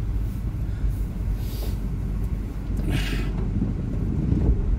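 Audi A2's engine running low and steady, heard from inside the cabin. Two brief hissing swishes come through it, about one and a half and three seconds in.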